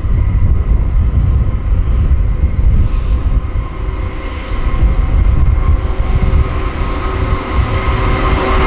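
A train running on the main line, a steady hum of its traction equipment over a gusty low rumble, its hiss growing louder toward the end as it comes closer.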